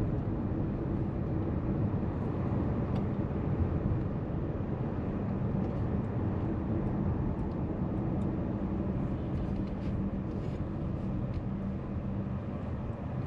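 Steady road noise of a moving car heard from inside the cabin: an even rush of tyres with a low steady hum under it.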